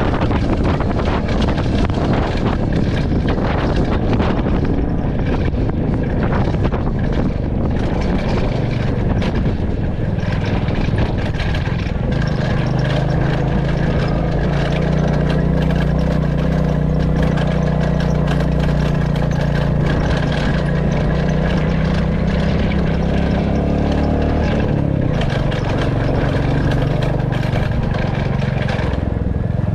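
Royal Enfield Classic 350 single-cylinder engine running as the motorcycle rides along, mixed with wind noise on the microphone. For the first ten seconds or so the wind and road noise are the louder part. From about twelve seconds in the engine's steady low note comes up strongly and holds, easing a little near the end.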